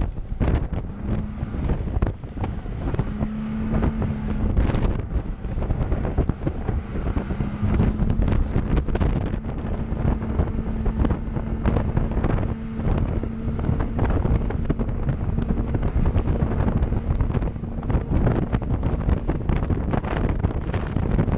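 Motorboat running across a choppy lake: wind buffeting the microphone over the steady hum of the engine and the rush of water, with many short knocks and slaps throughout.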